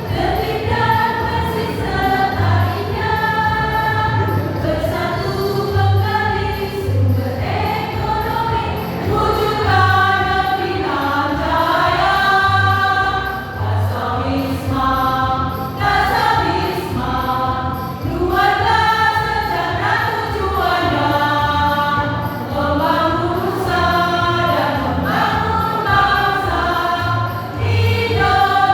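Choir singing, with low notes pulsing steadily underneath.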